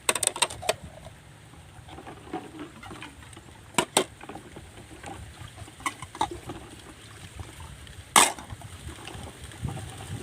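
Scattered sharp clicks and knocks: a quick cluster at the start, a pair about four seconds in, a few more around six seconds, and the loudest a little after eight seconds, over a faint low rumble.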